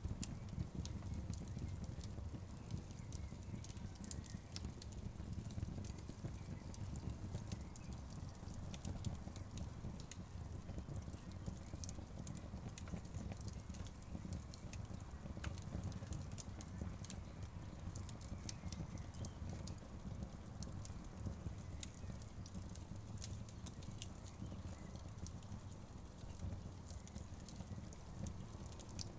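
Wood fire crackling in a fireplace: frequent sharp pops and snaps over a low, steady rumble.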